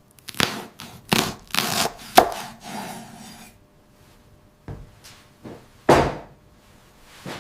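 Knife chopping on a cutting board: a cluster of uneven strokes in the first two seconds, a pause, then two sharper chops near the end.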